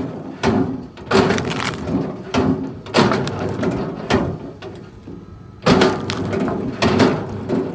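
A run of heavy knocks and cracks, roughly one or two a second, over a steady low drone.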